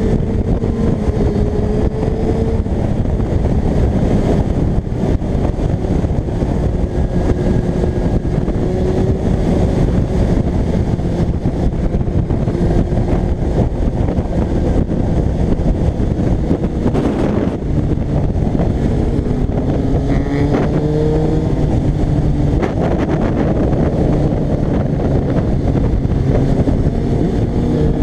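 Kawasaki ZX-6R J1 inline-four engine running on the move, its note rising and falling with the throttle and climbing about twenty seconds in, under a steady rush of wind on the microphone.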